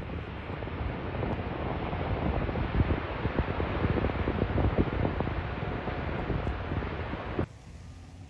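Strong wind gusting and buffeting the microphone, with a continuous low roar from the tornado. About seven and a half seconds in it cuts off abruptly to a much quieter steady hiss.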